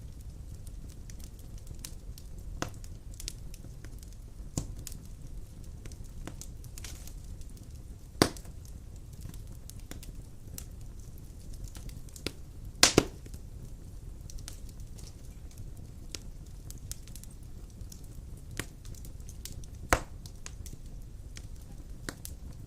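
Wood fire burning in a fireplace: a low steady rumble of flames with scattered crackles and sharp pops, the loudest a single pop about eight seconds in, a double pop near the middle and another pop about twenty seconds in.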